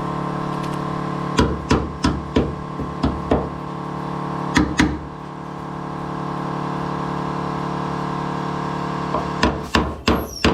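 Hammer tapping on sheet steel in short runs: about seven quick taps in the first few seconds, two more shortly after, and a burst of about five near the end. A steady machine hum runs underneath and cuts off at the very end.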